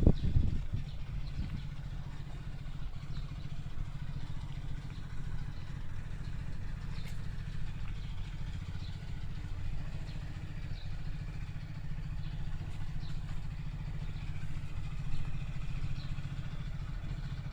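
Honda Life 360's small two-cylinder engine idling steadily just after starting, with its carburettor freshly adjusted.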